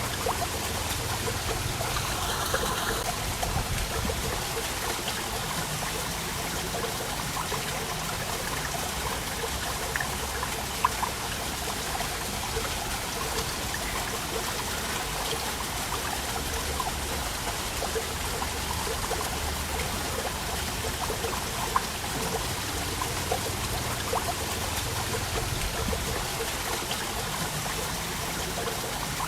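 Waterfall: falling water splashing and running steadily, with a few brief louder splashes.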